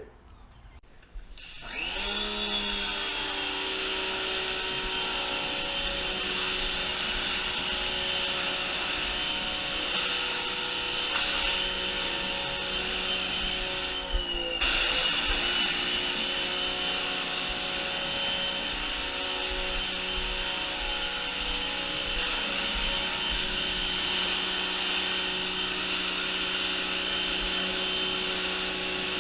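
Giraffetools Grandfalls 1800 W electric pressure washer starting up about two seconds in as the spray gun is triggered. The motor and pump then run steadily under spray, briefly cut out and restart about halfway through.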